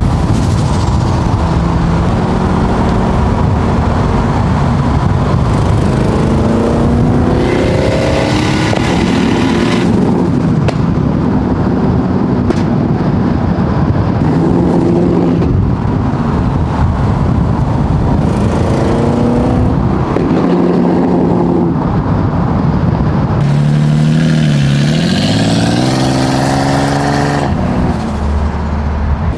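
Car engines revving as a group of cars accelerates, the engine note climbing in pitch again and again through the gears over steady road noise. The sound eases off near the end.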